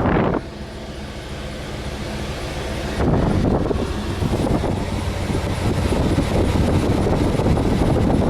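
Truck engine idling with the air conditioning running, a steady low hum, and the under-dash AC blower pushing air hard. The air rush gets clearly louder about three seconds in.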